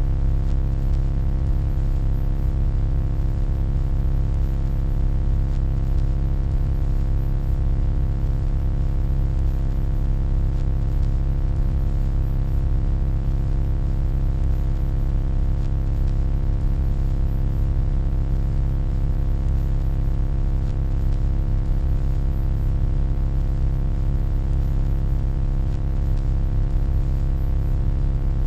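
Steady low electronic hum with a deep rumble underneath and many faint steady overtones above it, unchanging throughout.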